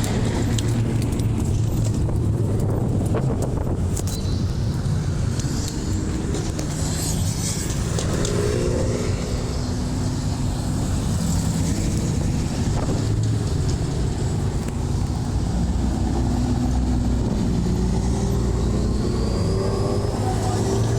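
Car engines rumbling over a steady deep low drone, with engine notes rising in pitch as cars accelerate past, most clearly near the end.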